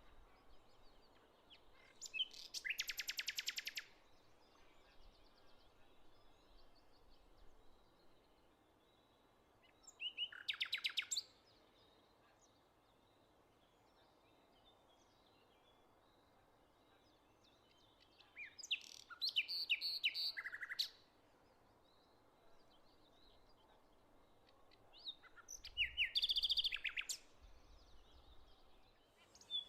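Songbirds singing, with four loud bursts of song made of rapid repeated notes, each a second or two long, spaced several seconds apart. Fainter calls come in between, over a faint steady background.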